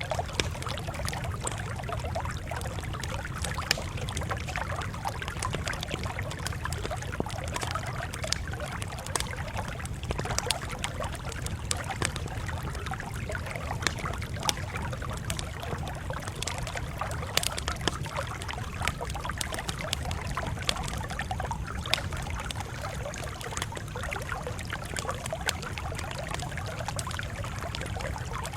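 Campfire crackling steadily, with frequent irregular sharp pops over a steady low rumble.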